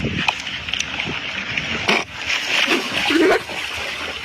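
Water splashing and sloshing, with a few short vocal calls about three seconds in.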